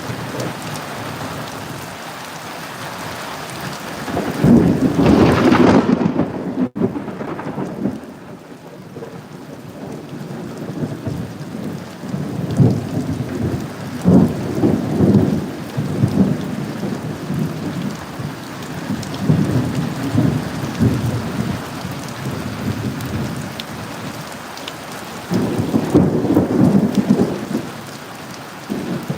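Steady rain falling, with thunder: a loud clap of thunder about four seconds in, then rolling rumbles that swell again around the middle and near the end.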